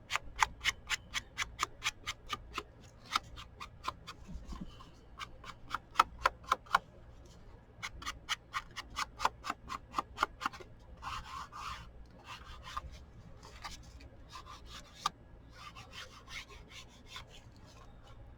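Ink being applied to a paper journal page by hand. It comes as runs of quick dabbing strokes, about four a second, mixed with a few longer scrubbing rubs.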